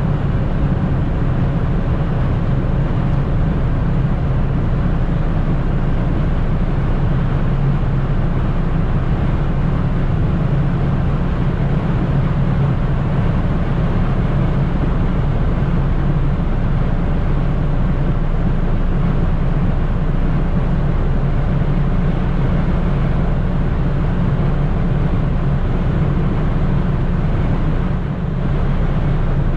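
Opel Corsa B 1.4i's four-cylinder engine running steadily at high motorway speed, heard from inside the car with a steady mix of engine drone, wind and tyre noise. The loudness dips briefly near the end.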